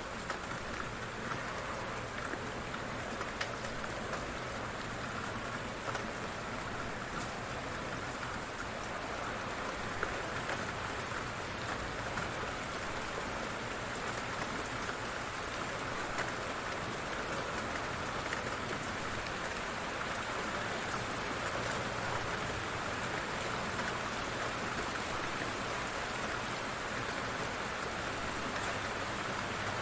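Light rain falling steadily, an even patter with a few separate drops standing out now and then.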